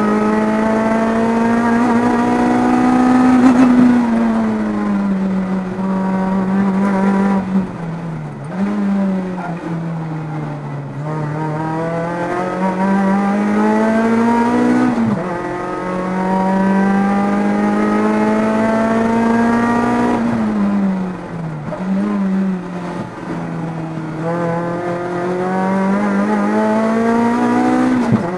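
Toyota MR2 AW11's 4A-GZE 1.6-litre four-cylinder, fitted with a Rotrex supercharger, run hard near 7000 rpm through a lap, heard from inside the cabin. The engine note climbs and falls with revs and drops sharply several times as the driver lifts and changes gear.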